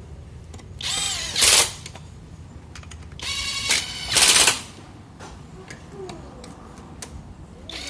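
A power tool, most like an impact wrench working the gearbox cover bolts, running in two short rattling bursts, each preceded by a brief rising whine.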